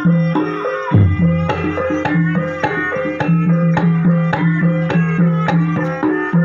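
Ebeg dance accompaniment music: hand drums beat a quick, busy rhythm over short repeated notes on tuned percussion, with a deep booming stroke about a second in.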